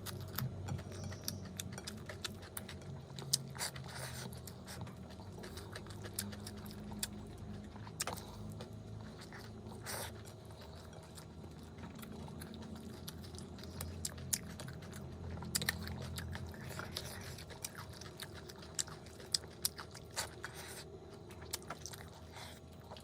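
Close-miked chewing and biting of rice, curry and crunchy salad, with frequent wet clicks and crunches at an irregular pace over a low steady hum.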